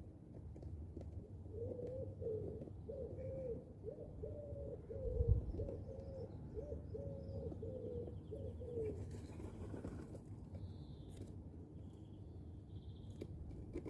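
A pigeon cooing: a run of short, low coos that goes on for several seconds. Faint high chirps of small birds come near the end, and there is a dull thump about five seconds in.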